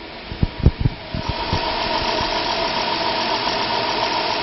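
A 2002 Dodge Caravan's 3.3-litre V6 cranks with a few uneven thumps, catches about a second in, and settles into a steady idle with a high, even whine.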